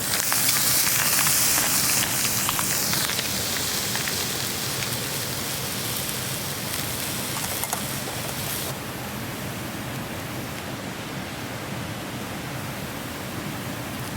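Beef bone marrow sizzling over a campfire, with scattered crackles. The loud hiss starts suddenly, eases after about three seconds and drops away at about nine seconds, leaving a softer steady hiss.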